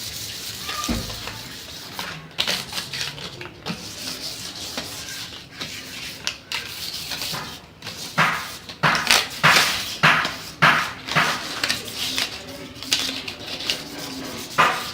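Hand scraping and rubbing strokes of water-thinned wood filler being worked onto wood, light and irregular at first, then from about eight seconds in a steady run of sharper strokes, roughly one to two a second.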